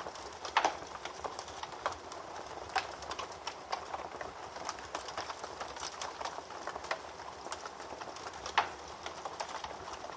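Wood fire burning in a fireplace: a steady hiss with irregular crackles and sharp pops, two louder pops about half a second in and near the end.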